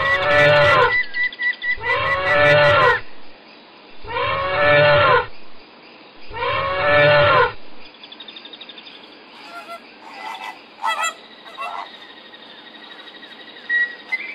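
An elephant trumpeting four times, each call about a second long with a rising-then-falling pitch, about two seconds apart. After that come a few faint short calls.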